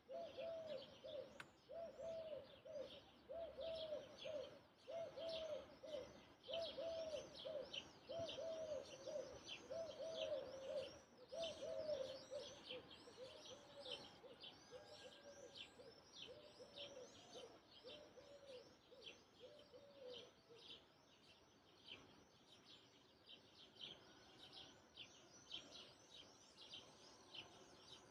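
Faint birdsong: a low two-note cooing call repeats about once a second and stops roughly two thirds of the way through. Under it, another bird gives a steady run of quick high chirps, about two a second.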